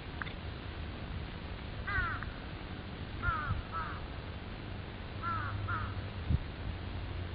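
A bird calling five times in short calls that fall in pitch: once about two seconds in, then two quick pairs.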